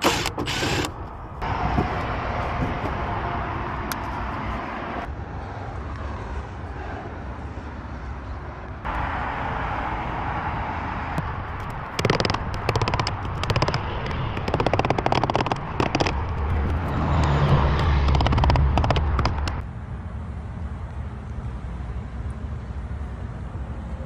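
Low rumble of a bucket truck's engine running, with knocks and clattering from work at the sign in the middle stretch.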